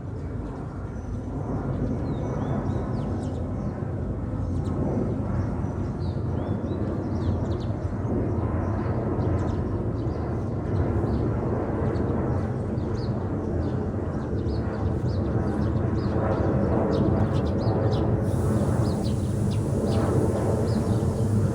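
Steady low rumble of an Airbus A330 jet airliner passing high overhead at cruising altitude, growing a little louder in the second half, with short bird chirps throughout.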